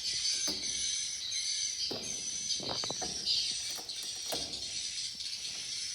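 Many swiftlets twittering in a dense, continuous high chatter, mixed with scattered sharp clicks and short rattles.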